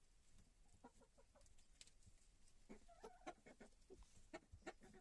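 Chickens in a coop giving faint, short soft clucks, a string of them starting about a second in and coming closer together near the end.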